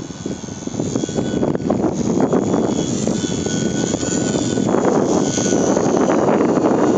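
Small electric RC model plane's motor and propeller buzzing in flight, mixed with wind buffeting the microphone, getting louder over the last few seconds.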